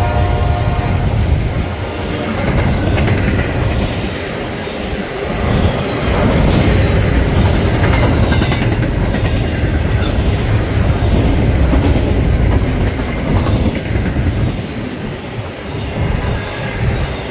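Double-stack intermodal container freight train passing close by: a steady heavy low rumble of steel wheels on the rails, with the clickety-clack of wheels over rail joints.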